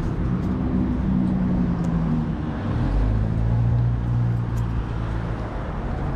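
Harley-Davidson Forty-Eight's air-cooled V-twin engine, fitted with a new air intake, running steadily, its pitch rising and falling a little.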